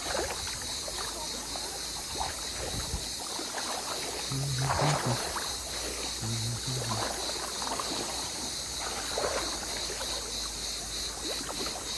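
Mountain river rushing steadily over rocks, with irregular splashes of people wading across through the water, the loudest about five seconds in.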